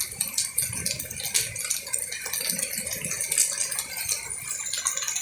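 Heavy rain with hailstones hitting hard surfaces: a dense, irregular stream of sharp ticks over the steady hiss of the downpour.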